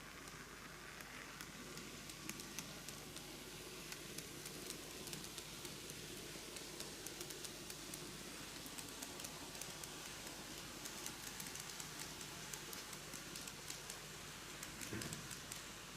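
KATO N gauge C11 steam locomotive model running on track with its coaches: a faint, steady whirr from the small motor and wheels, with many quick clicks as the wheels pass over the rail joints.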